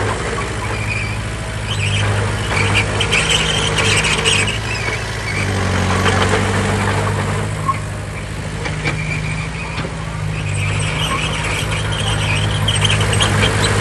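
Heavy diesel earthmoving machinery running steadily, with a high squeal that comes and goes over the engine note.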